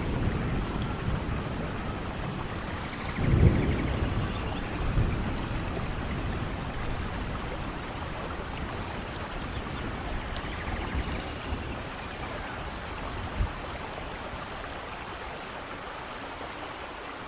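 Steady rain falling, with short low rumbles of thunder, the strongest about three and a half seconds in.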